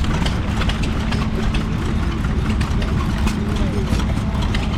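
Vintage stationary engine running steadily: a continuous low hum with many irregular sharp clicks from the working engine, and people's voices faintly in the background.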